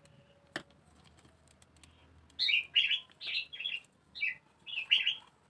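A small bird chirping: a quick run of about eight short, high chirps over the second half, after a single light tap about half a second in.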